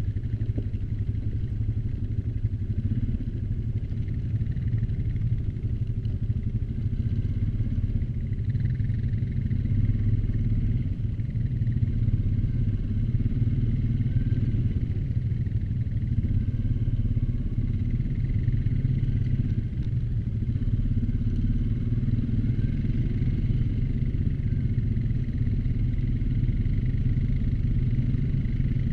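ATV engine running steadily under way, with small rises and falls in speed.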